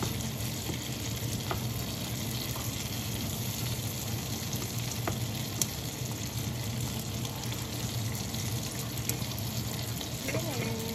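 Salmon fillets and asparagus sizzling steadily in a frying pan, with a few light clicks of a slotted spatula against the pan as the food is turned and pushed about.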